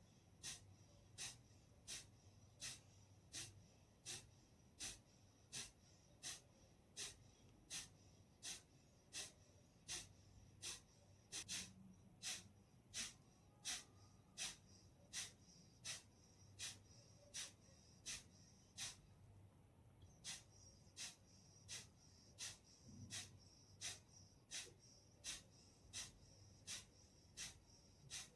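Kapalbhati pranayama breathing: short, forceful exhalations through the nose at a steady, even rhythm, about three every two seconds.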